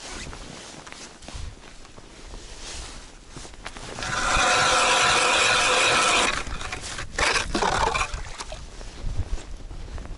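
Ice auger cutting through river ice: a steady grinding scrape for a little over two seconds near the middle, starting and stopping abruptly, then a few shorter scrapes and knocks.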